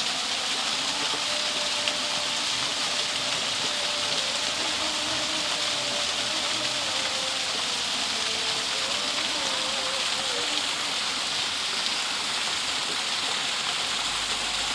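Steady rush of a waterfall, an even high hiss that does not let up. Faint distant voices are heard under it in the first ten seconds or so.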